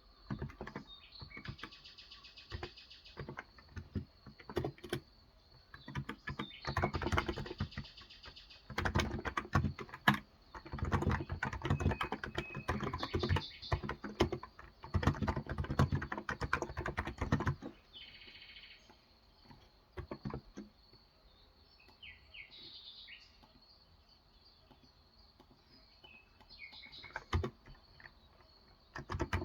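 Typing on a Cox Endeavor electro-capacitive keyboard with 35 g switches: dense runs of keystrokes through the middle, then only a few scattered keys. Birds chirp briefly now and then.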